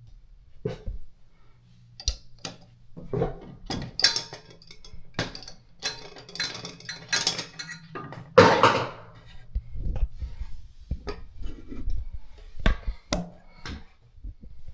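Hard parts of a sink pop-up drain and its fittings being handled, clinking and knocking irregularly, with one louder scrape about eight and a half seconds in.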